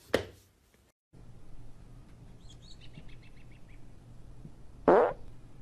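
A sharp short sound right at the start, then a quick run of high bird chirps over faint outdoor noise, and a loud short animal call near the end.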